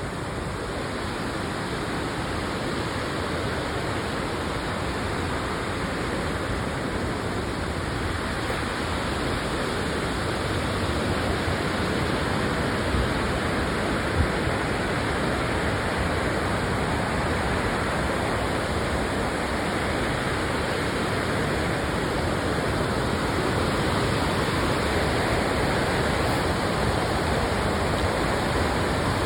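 Waterfall rushing: a steady, even roar of falling water that grows slightly louder over the stretch.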